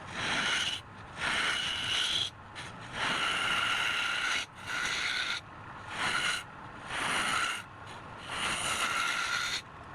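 Rasping strokes of a tool against wood being worked, about seven passes of half a second to a second and a half each, with short breaks between them.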